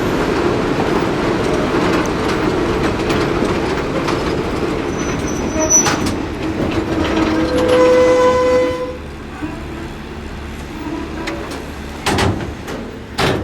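Train running, with a steady rumble and wheel noise. About seven seconds in, a single steady tone sounds for a couple of seconds, and then the noise drops away sharply. Two short knocks come near the end.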